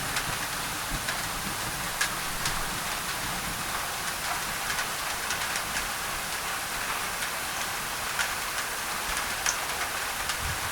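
Steady rain on a thin tin roof, with scattered sharp drop ticks standing out from a constant hiss, mixed with white noise for tinnitus masking.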